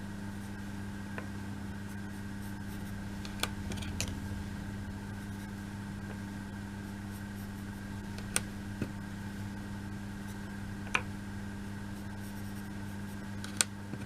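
Small laser-cut wooden model pieces clicking and tapping as they are handled and set down, about six sharp clicks, over a steady electrical hum.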